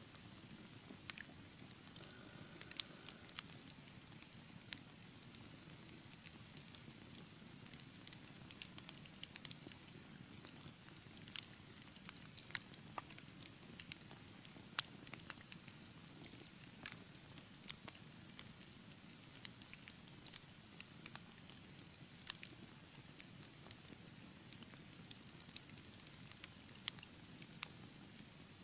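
Wood fire burning with scattered sharp crackles and pops over a soft low rumble of flame.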